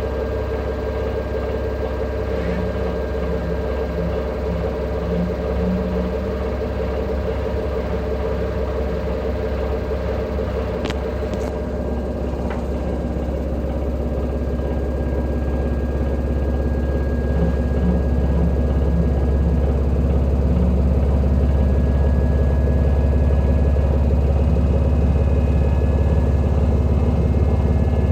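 LG direct-drive washing machine in its spin cycle, a loud steady low rumble with a whine above it, growing louder through the second half as the spin builds. This extreme noise during spinning is the sign of a spin fault.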